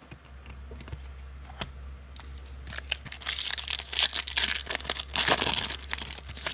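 A trading-card pack wrapper being torn open and crinkled, with scattered crackles building into a dense burst of tearing and crinkling from the middle to near the end.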